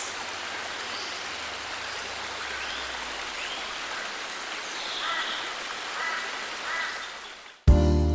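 Steady hiss of North Sea surf washing onto the beach, with a few faint gull calls in its second half. It fades out near the end and guitar music starts.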